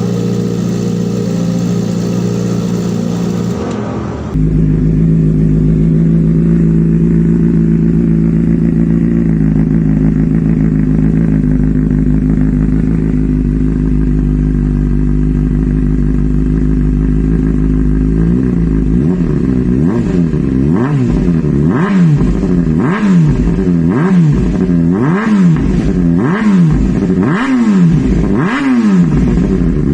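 Kawasaki ZX-25R's inline-four engine through a full-system racing exhaust, idling steadily, then from about eighteen seconds in revved in quick blips about once a second, each rise and fall of pitch followed by sharp crackles from the exhaust.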